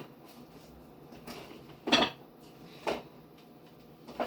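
Jars and food containers being set down and shifted on refrigerator shelves: four separate knocks and clunks, the loudest about two seconds in.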